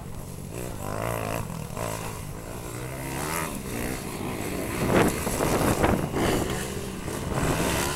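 Motocross dirt bike engines revving up and easing off repeatedly, with louder bursts of throttle about five and six seconds in.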